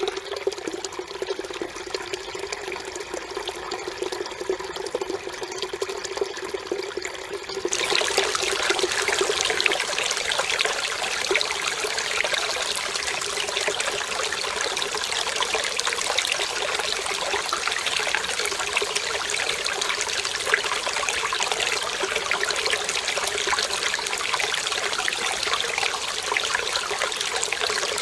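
Mountain stream water running and trickling over rocks. About eight seconds in it changes abruptly to a louder, brighter rush of water that then holds steady.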